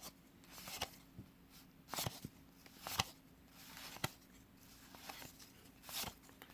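Trading cards being handled and flipped through by hand, giving short light clicks and rustles about once a second.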